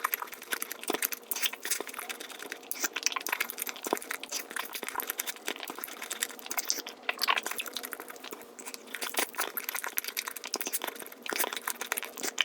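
Mukbang eating sounds played at ten times speed: chewing and biting into a Nutella crepe become a fast, continuous stream of small clicks and crackles.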